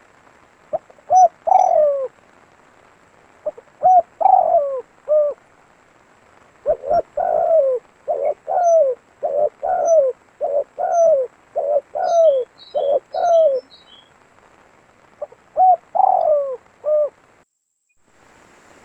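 Spotted dove (tekukur) cooing: groups of low coos, each bending downward in pitch, with a long steady run of coos in the middle. A few faint high chirps from a small bird come in around the middle, and the sound cuts out briefly near the end.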